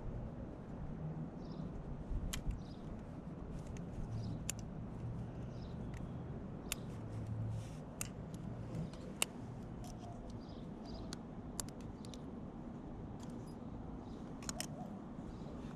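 Scattered sharp clicks and light metallic clinks, as of hand tools and parts being handled, over a faint low rumble; the engine is not running.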